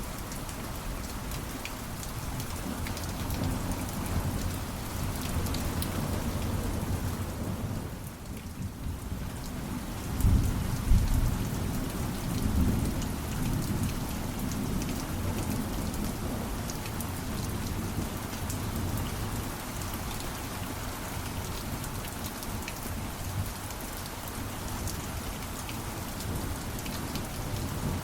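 Steady rain with a patter of scattered drops, and a low rumble of thunder rolling in about ten seconds in.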